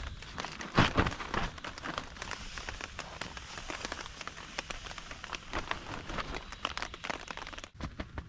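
Heavy rain falling, with many separate drops striking close to the microphone in an irregular, dense patter. A louder cluster of hits comes about a second in.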